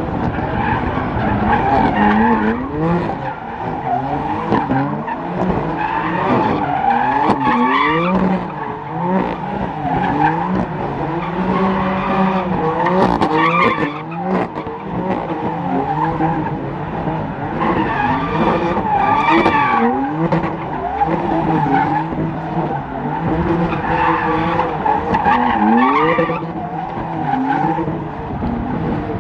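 Cars drifting: engines revving hard and falling back again and again, with tyres squealing and skidding throughout.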